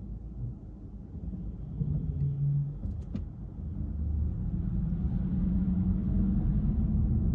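Car driving in city traffic: a low, steady rumble of engine and tyre noise that grows louder about halfway through as the car picks up speed, with one short sharp click a few seconds in.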